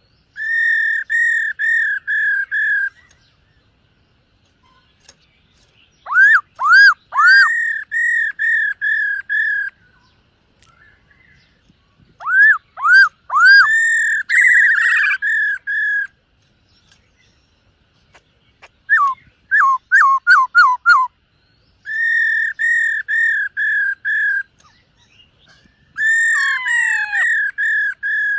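Black-throated laughingthrush singing in loud, clear whistled phrases, each a run of repeated notes at about three to four a second. Six phrases with pauses of one to three seconds between them; some open with swooping notes, and one near the middle is a quicker run of short falling notes.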